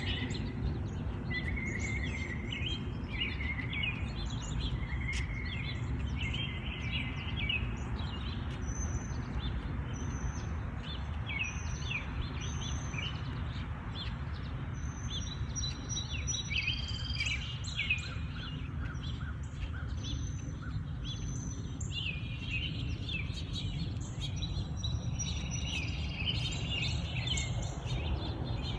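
Several songbirds singing and chirping in short repeated phrases and high whistles, over a steady low background rumble.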